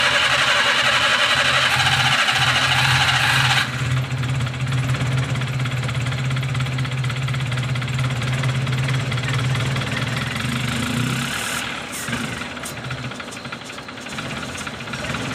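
A Daihatsu Move's petrol engine catching under the starter, with a loud noisy stretch for the first few seconds, then running with a steady hum. About eleven seconds in, the engine drops to a lower, less even idle. It is starting now that its water-damaged ECU has been cleaned and resoldered.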